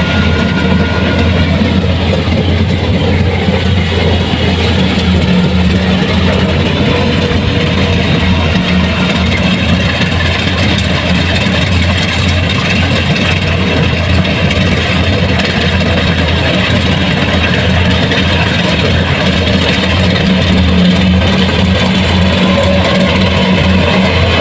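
Kubota rice combine harvester running steadily: a constant low engine drone over a dense mechanical din.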